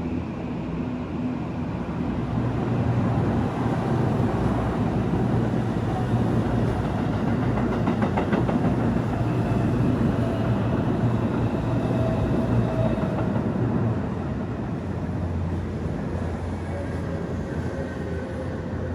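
Electric train running past on the Odakyu Line: a steady rumble of wheels on rail with a faint whine that slowly shifts in pitch. It is loudest for the first dozen seconds, then eases off.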